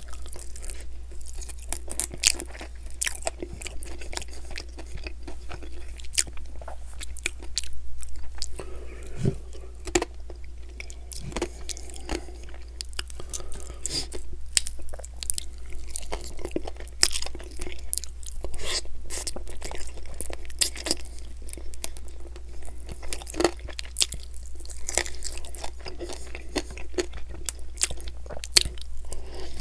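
Close-miked chewing and biting of sauced chicken wings, with crunching and many sharp mouth clicks.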